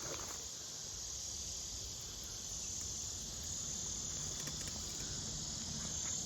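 A steady chorus of insects, crickets or similar, a continuous high-pitched shrill, with a low rumble underneath.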